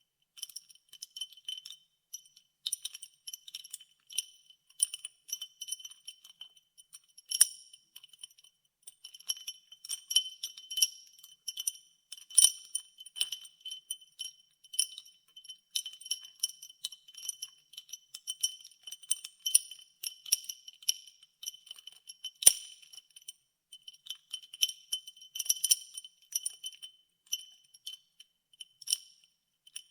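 Ice cubes being stirred in a glass of iced water: a run of quick, bright clinks against the glass, ringing at a few high pitches, with a few louder knocks now and then.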